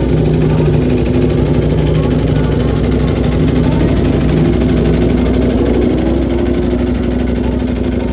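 An engine idling steadily, with a slight rise in pitch around the middle.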